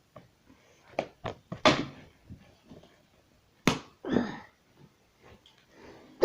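A few separate knocks and clacks, with short scraping in between, as toy train track pieces are handled and fitted together.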